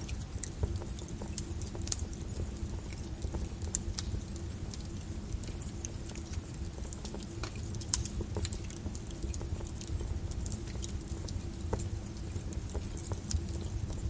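Wood fire crackling in a fireplace: irregular sharp pops and snaps over a low steady rumble, with one louder pop about eight seconds in.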